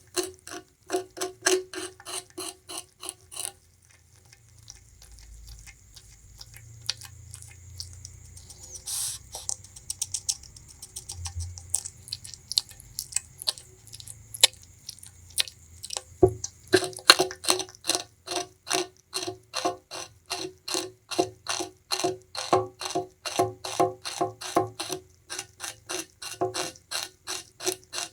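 Bamboo rat gnawing and chewing sugarcane: rapid crisp crunches, about four a second. In the middle there is a quieter stretch of softer chewing before the fast crunching starts again.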